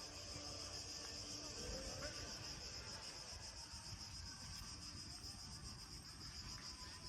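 Crickets chirping in a continuous, high-pitched trill.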